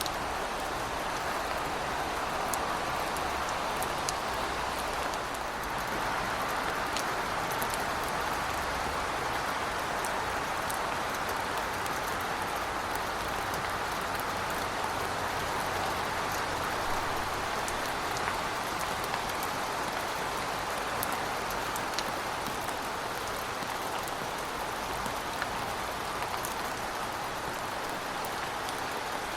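Heavy rain falling steadily: a dense, even hiss with scattered sharp drop ticks and a faint low rumble beneath it for the first half.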